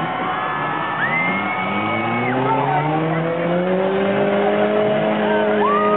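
A demolition-derby car's engine revving up over about three seconds and then held at high revs. Two long, steady high-pitched squeals sound over it, one about a second in and another near the end.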